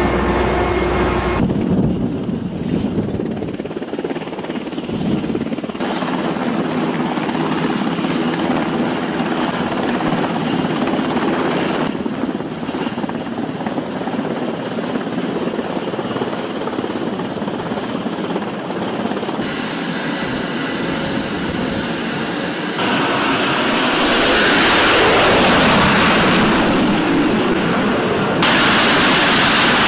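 Steady, loud mechanical and wind noise in several cut-together segments: a navy helicopter carrying a slung cargo load about midway, then flight-deck aircraft noise near the end that turns louder in the last few seconds.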